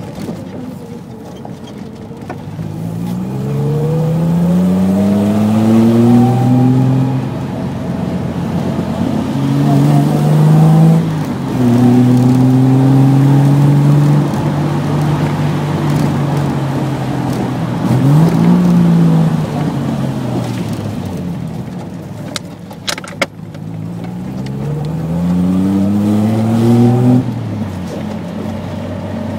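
Triumph GT6's straight-six engine heard from inside the car, pulling hard out of bends: its note climbs steadily in several long runs, steadies, and drops back between them. A few sharp clicks come a little past the middle.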